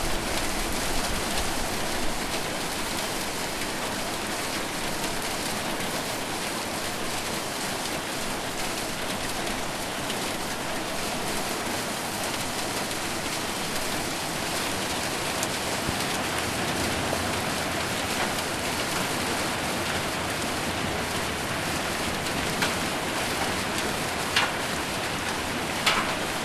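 Heavy rain mixed with hail falling on a roof: a steady, dense patter, with a few sharper single hits standing out near the end.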